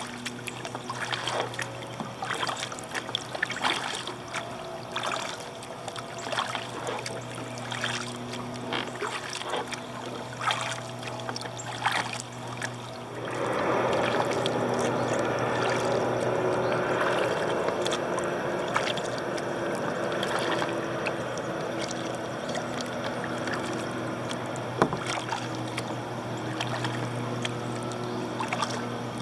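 Kayak paddle strokes splashing about once a second, with a lawnmower engine droning steadily in the background. About halfway through, a louder steady rushing noise comes in over them.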